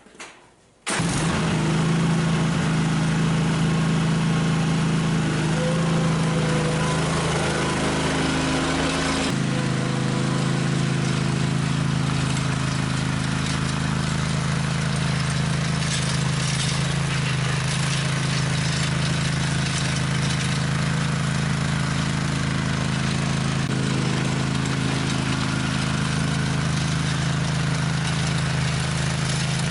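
Small gasoline engine running steadily, starting abruptly about a second in; its tone changes slightly about nine seconds in, then holds.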